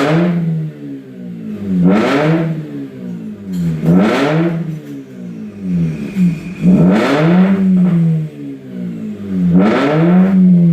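Mazda RX-8's twin-rotor rotary engine revved five times through a valvetronic exhaust set to its open 'racing' mode, each rev climbing sharply and dropping back to a steady idle, about every two to three seconds.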